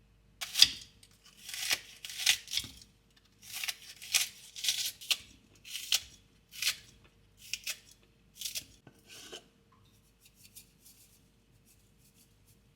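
Kitchen scissors snipping through food, a cut every half second or so, then a few faint light ticks in the last few seconds.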